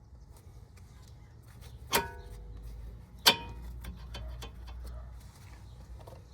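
Two sharp metallic clinks, about a second apart, each with a brief ringing tone, as metal parts or tools are handled over a low background hum.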